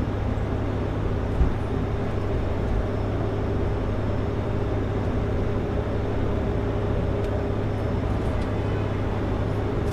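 Kenworth W900L semi truck under way on the highway, heard from inside the cab: a steady drone of engine and road noise with a low rumble and a faint steady hum.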